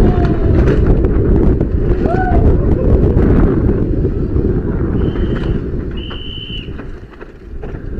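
Wind buffeting the microphone on a moving bicycle, a dense low rumble that eases off near the end, with two short high squeals about five and six seconds in.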